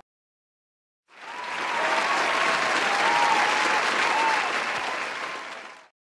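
Crowd applause sound effect with a few faint cheers, fading in about a second in and fading out near the end.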